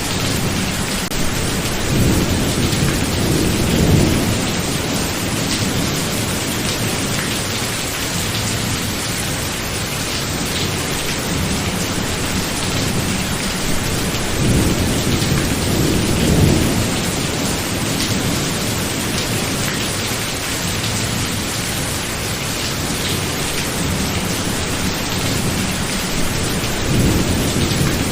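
Steady heavy rain hissing, with thunder rumbling three times: about two seconds in, around the middle, and again near the end.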